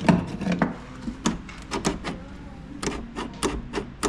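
An irregular series of sharp clicks and knocks from the crash-damaged Jeep Comanche door as it is handled, with the door's latch and lock being worked while they are jammed.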